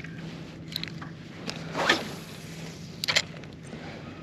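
A few sharp clicks and knocks, with one louder short rushing noise about two seconds in, over a faint steady low hum.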